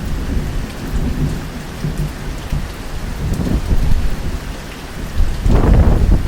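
Thunderstorm: steady rain with low rolling thunder, swelling into a louder rumble near the end.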